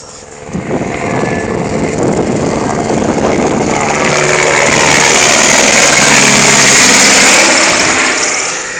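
Helicopter passing overhead: its engine and rotor noise grow louder, peak about seven seconds in, then begin to fade.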